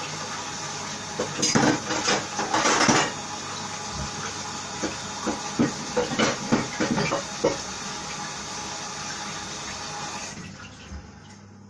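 Kitchen tap running into a sink while a chopping board is washed under it, with bursts of clattering knocks as it is handled against the sink. The water is turned off near the end.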